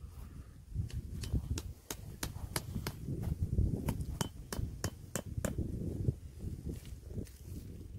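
Repeated sharp knocks, about two to three a second, of tent pegs being hammered in while a tent is pitched, over low rumbling handling noise.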